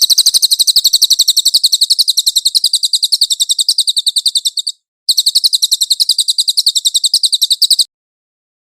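A cililin songbird singing a very fast, high, rattling trill of evenly repeated chirps. It pauses briefly about halfway through, then runs again before stopping near the end.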